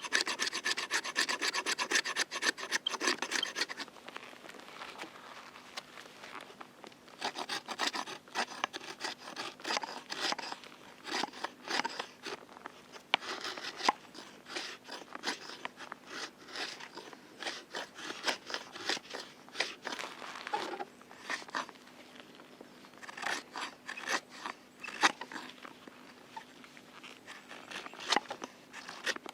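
Repeated rasping, scraping strokes: rapid and continuous for the first few seconds, then slower and at irregular intervals.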